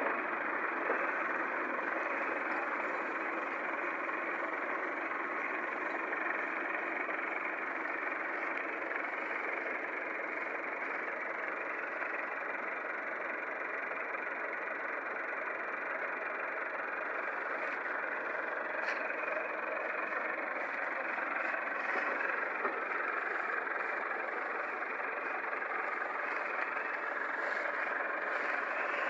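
A tractor engine running steadily, heard as an even, unchanging noise without much deep rumble.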